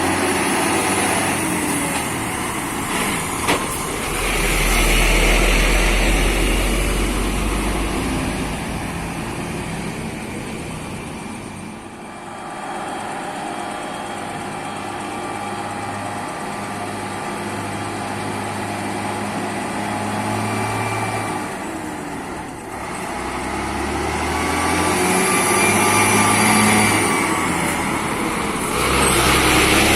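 Motor vehicles passing on a road, their engines and tyres swelling loud as each goes by, about 5 seconds in and again near the end, with a quieter stretch of steady engine noise between.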